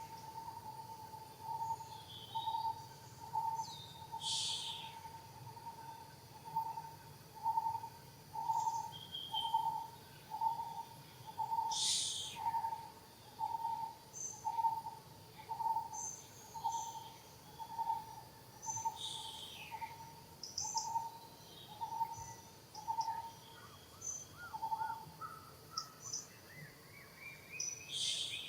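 A bird repeating a single low hooting note, about three times every two seconds in a long even series that stops a few seconds before the end. Other birds chirp briefly and higher over it.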